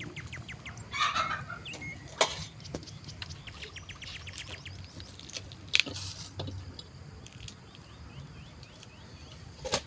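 Chickens clucking, with small birds chirping in the background. A few sharp knocks stand out, the loudest about two seconds in, near the middle and near the end.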